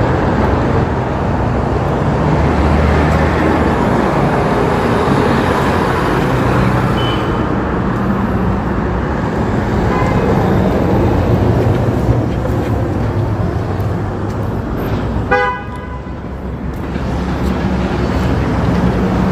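Steady engine and road rumble from a motorbike ride through traffic. About fifteen seconds in there is one short vehicle horn toot.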